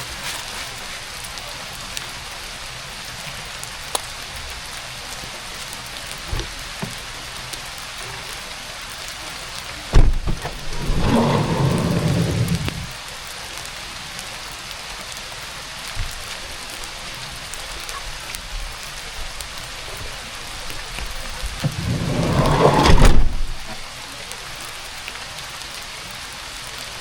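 Heavy rain falling steadily, with a few scattered drip ticks. Two louder low rumbles break through: one starts suddenly about ten seconds in and lasts a few seconds, and another swells up past twenty seconds and stops abruptly.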